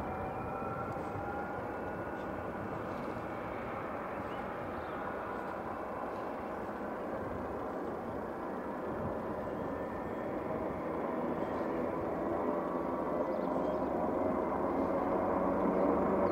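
AgustaWestland AW139 twin-turbine helicopter running on the ground, spooling up: a steady turbine whine over rotor and engine noise, getting gradually louder over the last several seconds.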